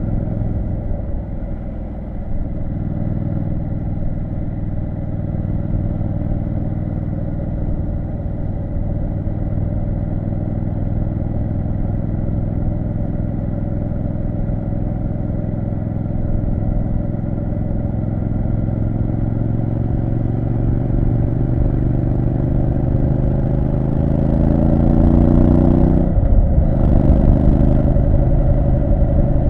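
Triumph Street Scrambler 900's parallel-twin engine pulling under way, its revs climbing steadily for about ten seconds. Near the end, a gear change drops the revs sharply, and the engine then pulls on again.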